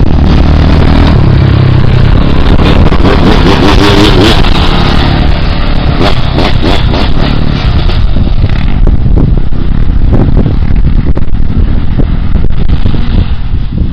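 Motocross bike engine running and revving hard, loud and close with distortion; the revs climb and fall a few seconds in, followed by rapid knocking and crackling over the engine.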